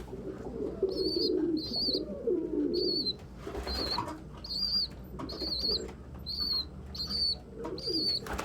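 Pigeons cooing, with a short high peep repeated a little more than once a second and a brief flutter of wings about three and a half seconds in.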